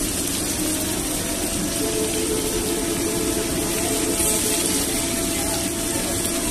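Hilsa fish pieces deep-frying in a wide pan of bubbling oil, a steady sizzle.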